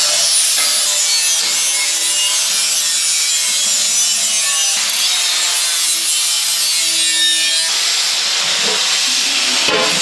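Steady, harsh rasping of a tool working a material, its tone shifting abruptly about five and again about eight seconds in.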